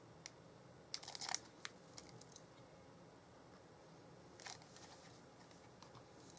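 Quiet handling of paper and card: a quick cluster of crinkles and clicks about a second in, and another brief rustle about four and a half seconds in.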